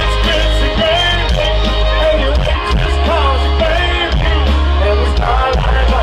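Live country band playing loud, with heavy bass and a lead voice singing over guitars and drums.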